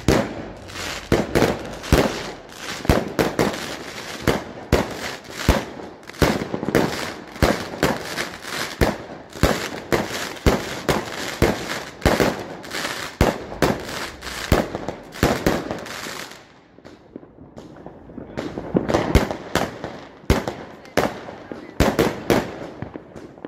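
A firework barrage going off: many sharp bangs and pops in rapid succession, several a second. They pause for about two seconds around two-thirds of the way through, then start again.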